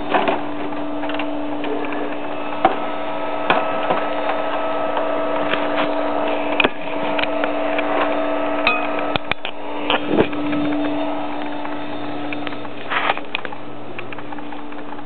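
A steady hum, with scattered clicks and taps throughout.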